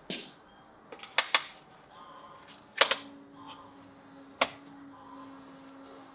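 A few sharp clicks and knocks of objects being handled, five in all, the loudest just under three seconds in. A steady low hum comes in just after it and carries on.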